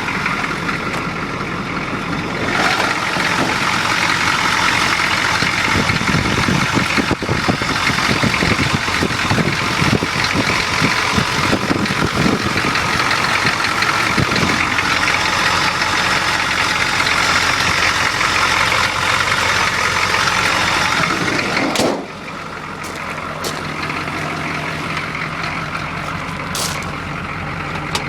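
1986 Chevrolet K10's 6.2-litre diesel V8 running after a cold start. It is louder with uneven knocking until about 22 seconds in, then drops abruptly to a quieter, steadier running sound.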